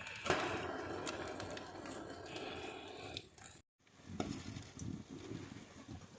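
Wood fire in a fireplace, a steady hiss of flames and then scattered crackles and pops, with a brief dead gap a little past halfway.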